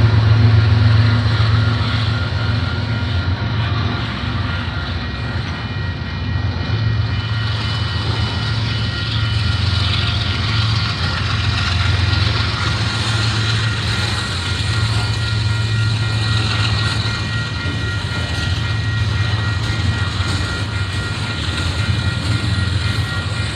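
Canadian Pacific diesel locomotive running steadily, a deep engine drone with thin steady higher tones above it.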